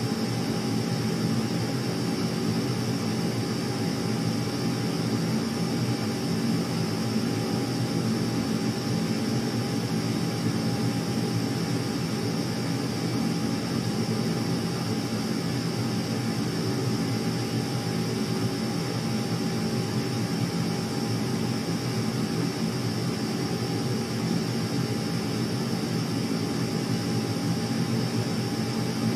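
Steady aircraft engine drone with a constant whine over it, unchanging in level and pitch.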